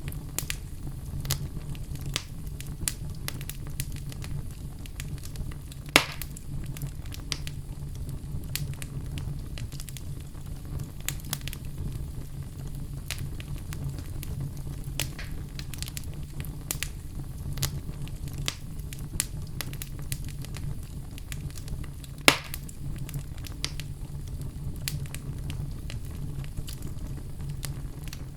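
Oak logs burning in a fireplace: a steady low rumble of flames with frequent crackles and snaps, and two loud pops, one about six seconds in and one near 22 seconds.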